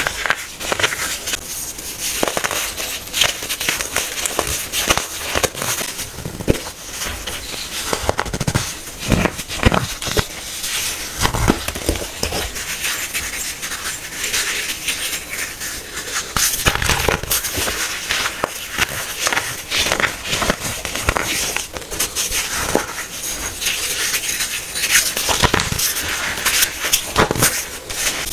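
Hardened baking soda being crushed, a continuous run of crunchy, crackling snaps and crumbling.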